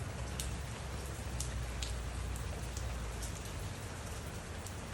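Steady heavy rain falling on surfaces during a thunderstorm, with scattered sharp drop ticks close by. A low rumble runs underneath and fades out about three and a half seconds in.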